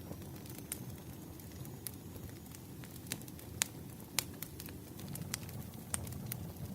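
Firewood burning: a low, steady rumble of flames with sharp crackles and pops at irregular intervals, the loudest few near the middle.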